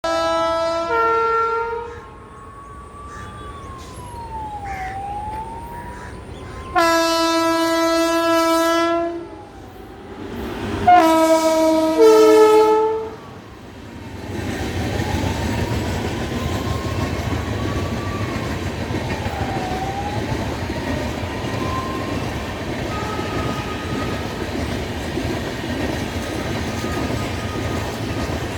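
WAP7 electric locomotive sounding its horn in three blasts, the first and last each shifting pitch partway, the middle one held for about two and a half seconds. From about 13 seconds in, the express's coaches pass with a steady rumble and wheel clatter.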